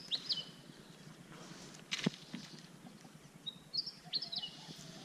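A bird calling twice, each a short phrase of high notes that drop in steps, against quiet outdoor background. About two seconds in there is a single sharp knock.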